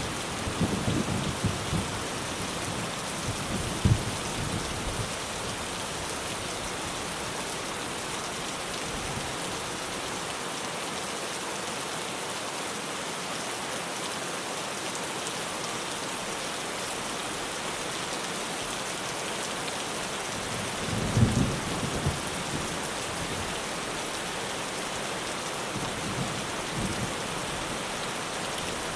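Steady rain falling on a tin roof. Low rolls of thunder rumble in the first few seconds and again about two-thirds of the way through.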